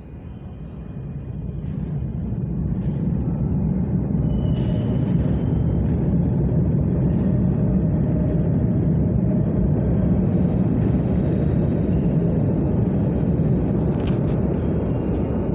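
Train rumbling in the station: a low rumble builds over the first few seconds, then holds loud and steady. A brief high squeal comes about five seconds in, and a couple of clicks near the end.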